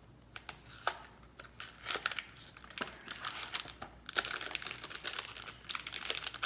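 Crinkly plastic snack packaging being handled and opened. Scattered crackles at first, then dense crinkling from about four seconds in.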